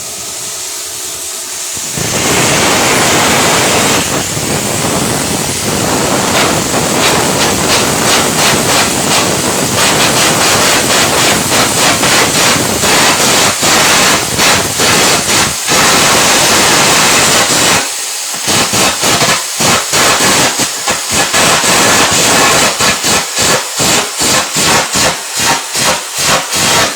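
Electric arc welding: the arc crackles and hisses loudly and steadily from about two seconds in. In the second half it stutters, cutting in and out several times a second.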